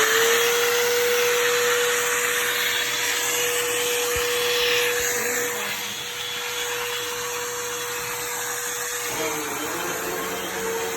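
Hoover vacuum cleaner running steadily with its motor whine, just after switching on. About nine seconds in the pitch dips slightly and the sound grows a little quieter and wavers.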